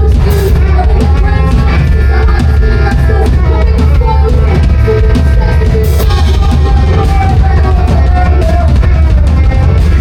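A rock band playing live, loud and heavily distorted: drum kit with cymbal crashes, bass and electric guitar, with no vocals.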